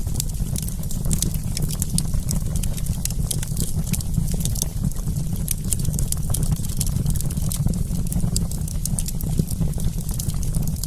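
Wood campfire crackling: many small, sharp pops and snaps at an irregular pace over a steady low rumble.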